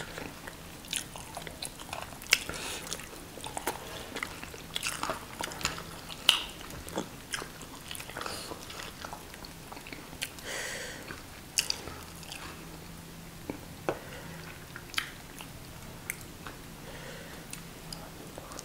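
Close-up eating sounds of people eating fried tilapia and banku with their fingers: scattered wet chewing, lip smacks and small clicks. A faint steady hum lies underneath.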